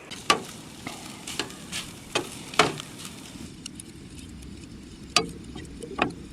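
Camp dinner cooking: food sizzling in a pan over a steady hiss, with a utensil stirring and knocking against the pan several times.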